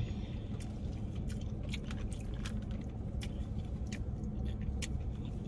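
Close-miked chewing of food: soft wet mouth clicks and smacks at an uneven pace, over a steady low hum.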